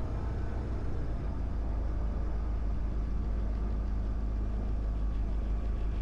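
Diamond DA20's piston engine running with a steady low drone, heard from inside the cockpit while the plane lines up for takeoff.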